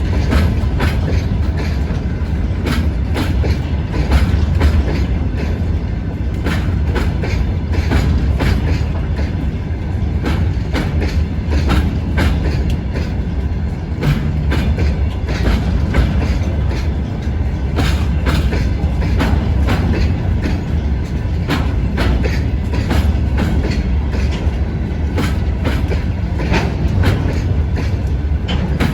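Freight train wagons rolling past, with a steady low rumble and the clatter of wheels over rail joints.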